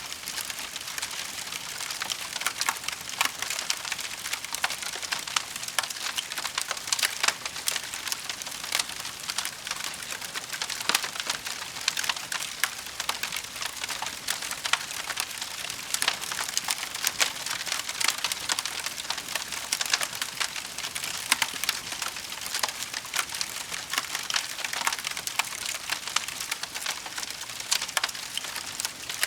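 Wood fire burning in a fireplace: a steady hiss with dense, irregular crackles and pops from the burning logs.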